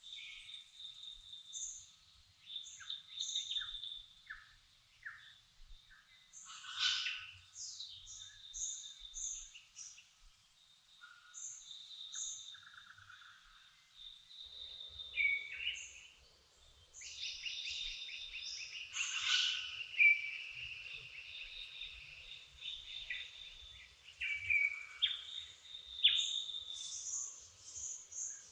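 Dawn chorus: several birds singing and calling at once, with short high chirps, a sustained trill and short falling whistles overlapping throughout. The loudest burst of song comes about two-thirds of the way through.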